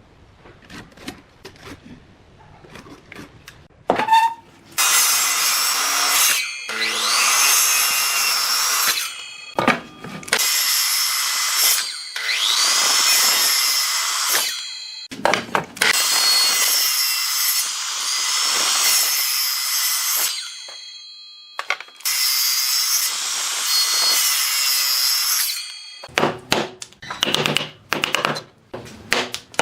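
Electric power tool working wood in several long runs, its motor whine rising as it spins up and then holding steady. Near the end come a string of short wooden knocks and taps.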